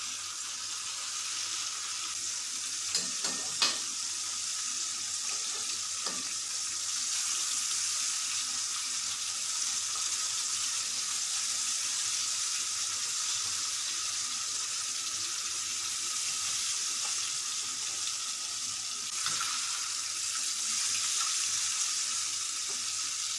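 Battered mackerel and drizzled tapioca batter sizzling steadily in hot oil in a wok as the coating crisps. A few light knocks of the spatula against the wok come in the first several seconds.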